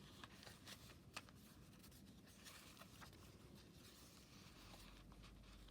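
Near silence with a few faint ticks and light rustles of paper pages being handled and turned in a handmade journal.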